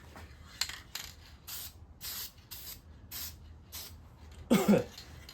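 Aerosol spray-paint can giving a quick series of short hissing bursts, touching up missed spots on an engine block.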